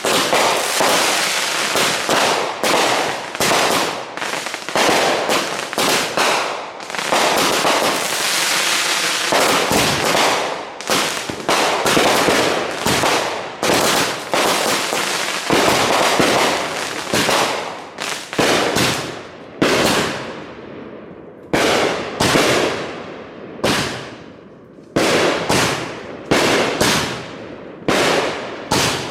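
Consumer fireworks going off in rapid succession: dense bangs and stretches of crackling, thinning toward the end into separate bangs about a second apart, each trailing off in a fading crackle.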